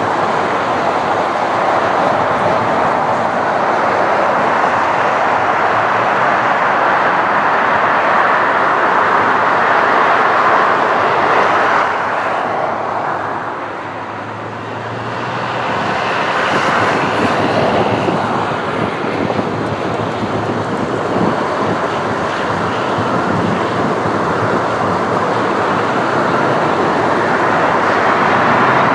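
The twin rear-mounted IAE V2500 turbofans of a McDonnell Douglas MD-90-30 airliner running with a loud, steady jet noise. The noise dips briefly about halfway through, then builds again.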